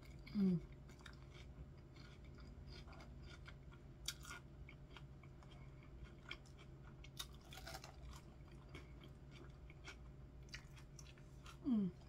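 Close-up chewing of a crunchy iceberg-lettuce salad, with soft crunches and small mouth clicks throughout. Two short hums falling in pitch stand out, one just after the start and one near the end.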